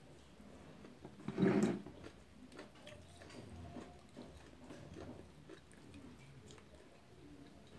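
Close-miked eating sounds: chewing steamed chicken, with small wet mouth clicks and smacks and one louder, brief mouth sound about a second and a half in.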